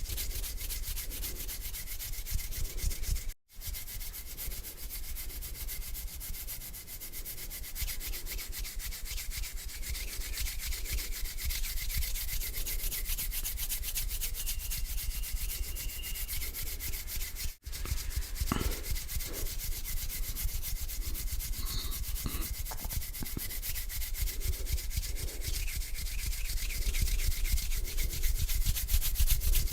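Hands rubbing together slowly and steadily, skin against skin, close to the microphone. The sound drops out very briefly twice, about three and a half and seventeen and a half seconds in.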